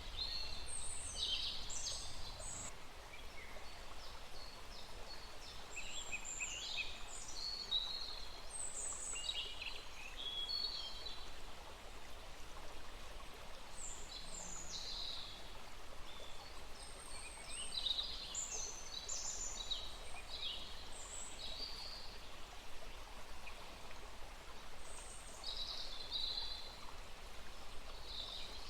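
Small stream running steadily, with several birds giving short high chirps and trills in scattered bursts over it.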